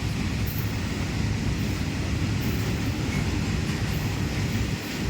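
Express train of coaches passing on the rails: a steady rumble of wheels on track.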